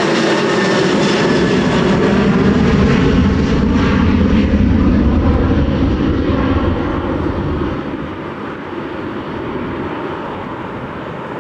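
Jet airliner's engines running as it passes on the runway, loud, then fading away about two-thirds of the way through.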